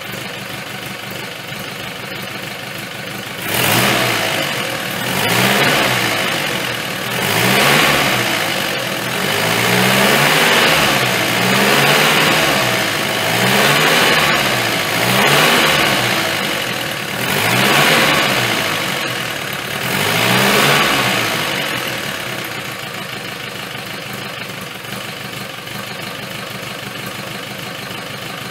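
Land Rover Series 1 four-cylinder petrol engine, newly fitted with a carburettor and retimed, idling steadily, then revved by hand about nine times, each rev rising and falling, before settling back to a smooth idle. It exhausts through a fitted silencer.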